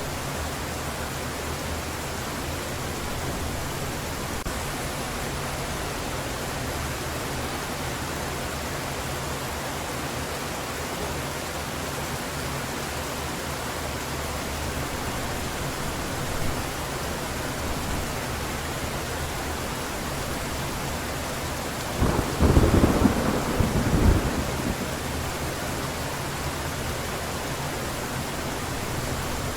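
Steady heavy rain hissing, with one thunderclap about three-quarters of the way through that rumbles for about three seconds before fading back into the rain.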